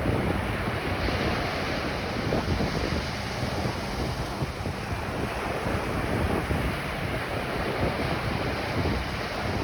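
Ocean waves washing onto a beach, a continuous surf rush, with wind buffeting the microphone.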